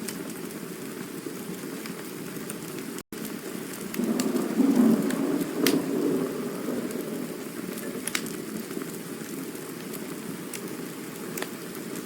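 Campfire burning: a steady low rustling hiss with scattered sharp crackles and pops, swelling louder for a couple of seconds around the middle. The sound cuts out completely for an instant about three seconds in.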